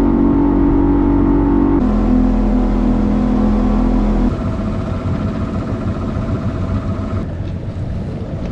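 A boat motor running steadily on the water, its hum shifting abruptly in pitch about two and four seconds in.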